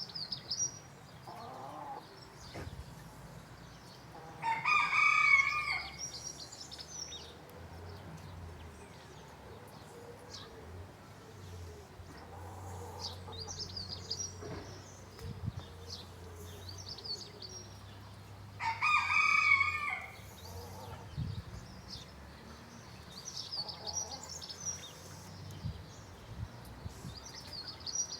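A rooster crowing twice, each crow about a second and a half long and the loudest sound, about fourteen seconds apart, with small birds chirping between.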